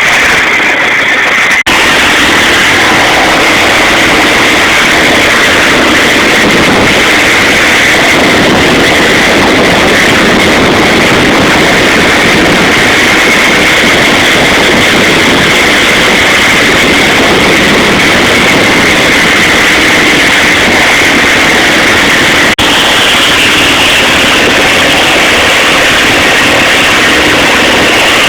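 Boat engine running loudly and steadily under way.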